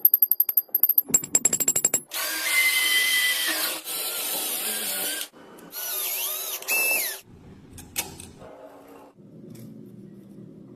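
Small power tool running in two bursts of a few seconds with a whining tone, after a quick run of clicks, and a single sharp click near the end.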